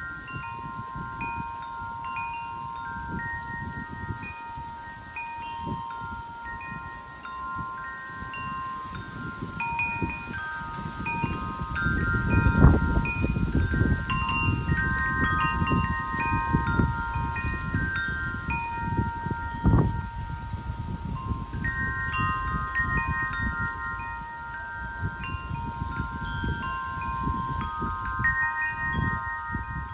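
Wind chimes ringing steadily in the wind, several clear notes overlapping and changing as they are struck. Gusts of wind rumble underneath, strongest in the middle, with two sharp knocks about halfway through and two-thirds of the way in.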